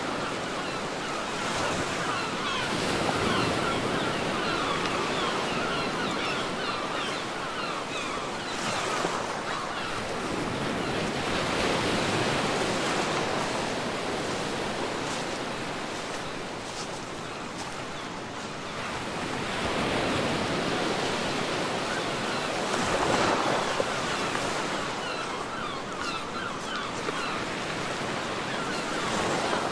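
Ocean surf washing onto a beach in slow surges, swelling and ebbing about every eight to ten seconds, with a fizzing hiss of foam between the swells.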